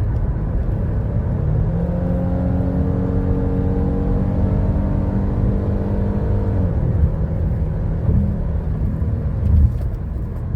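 2017 Ford Explorer's V6 engine pulling under hard acceleration from inside the cabin, over a heavy road rumble: the engine note climbs steadily for several seconds, then falls away about two-thirds of the way through. The engine is being pushed hard to bring out a misfire on cylinders 2 and 6 that the mechanic puts down to a lean fuel supply.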